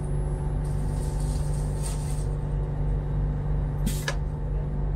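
Interior of a Bangkok Airport Rail Link train carriage: a steady low hum from the train, with a hiss that starts about a second in and lasts about a second and a half, and a sharp click about four seconds in.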